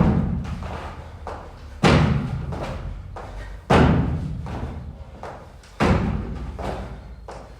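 Heavy thuds from a gym workout, one about every two seconds, each dying away slowly over a second or so.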